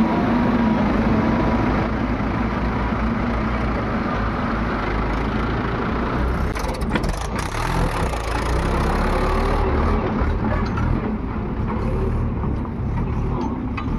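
Heavy diesel machinery running steadily: a JCB backhoe loader and tractors at work loading soil, the engine note shifting about halfway through.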